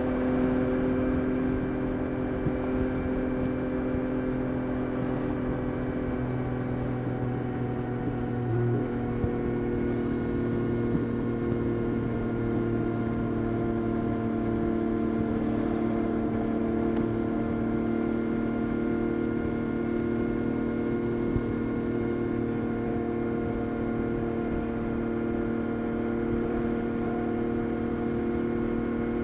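Yamaha Tracer 9 GT+'s CP3 inline-three engine running through a Roadsitalia titanium exhaust at steady, nearly unchanging revs, with a slight shift in the engine note about nine seconds in.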